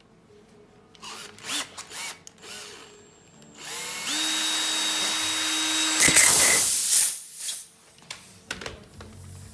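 Handling clicks, then a small electric motor spins up with a rising whine and runs steadily for about two seconds. It ends in a loud burst of hissing air about six seconds in, which fades over a second or so.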